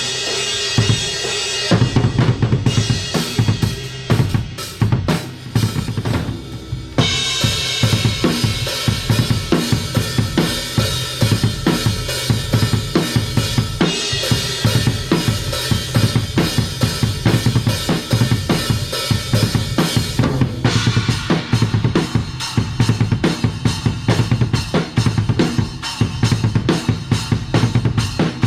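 Maple drum kit playing a fast rock beat with steady kick and snare hits under cymbal wash. A choppier, broken-up passage with short gaps comes a couple of seconds in, and the full beat returns about seven seconds in, with further section changes later.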